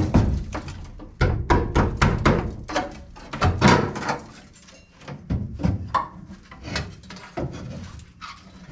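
A sharp knock, then a run of irregular clunks and rattles as the windshield wiper assembly is worked loose from a VW bus's front panel.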